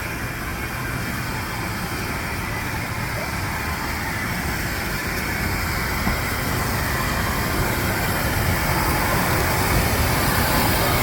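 Train on a heritage railway line, a steady rumble and hiss that grows slowly louder as it comes closer.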